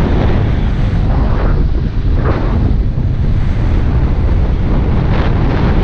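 Loud wind buffeting the microphone, a steady low rumble with a few brief louder swells.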